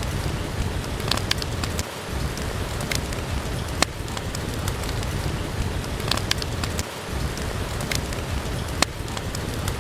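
Steady rain with a low rumble underneath, and a wood fire crackling with a sharp pop every couple of seconds.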